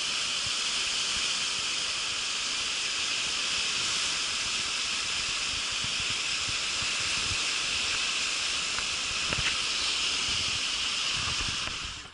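Steady rushing of whitewater in a river rapid, cutting off suddenly near the end.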